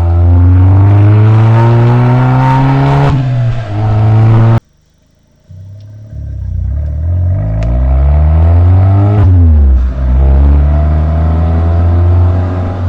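Exhaust note of a Suzuki Swift Sport ZC33S's 1.4-litre turbocharged four-cylinder through a SACLAM aftermarket muffler with the stock catalytic converter, accelerating hard. The pitch climbs and drops sharply at an upshift about three seconds in, breaks off for about a second, then climbs again through a second upshift near nine seconds and settles into a steady drone.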